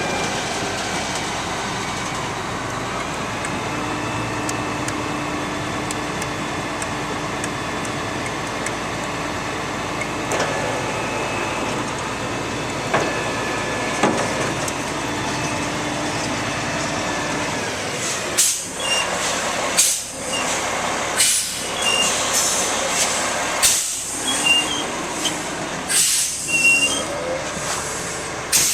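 Concrete mixer truck's Cat C-10 diesel engine running steadily, and about two-thirds of the way through the sound turns choppy, with irregular surges that fit bursts of air hiss from the truck's air system.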